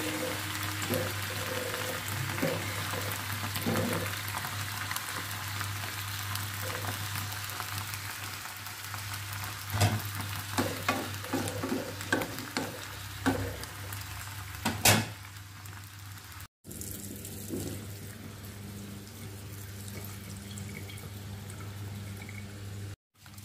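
Crab, shrimp and vegetables sizzling in a frying pan, with a wooden spatula knocking and scraping against the pan several times between about ten and fifteen seconds in. After a cut, a kitchen tap runs water into a bowl of grated coconut.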